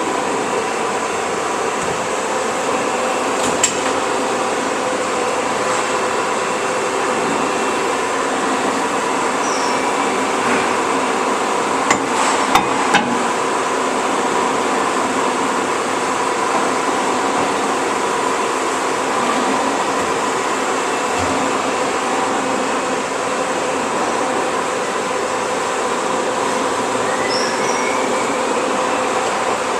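Industrial band saw running with a steady mechanical hum, as the workpiece is changed between notching cuts. A few sharp metallic knocks come about three and a half seconds in and again around twelve to thirteen seconds in.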